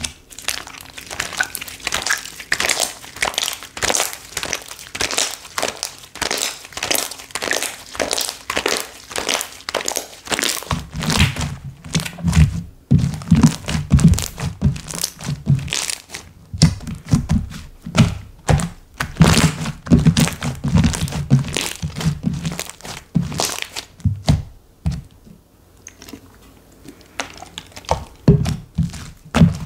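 Slime being squeezed, pressed and poked by hand, making rapid clicking and popping sounds. From about a third of the way in, deeper thuds join the clicks, and there is a quieter stretch near the end.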